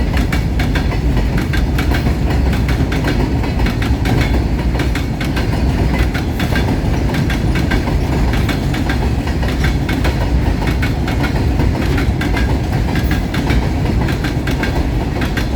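Freight train's wagons rolling steadily past: a constant low rumble of wheels on track with a dense, rapid clatter of wheel clicks over rail joints.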